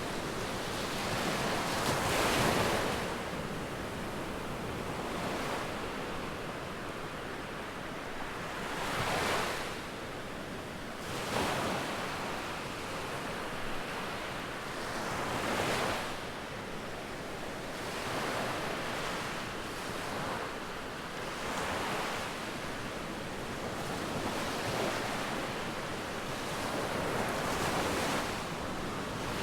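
Sea surf breaking and washing up a beach, a steady rush of water that swells with each wave every few seconds.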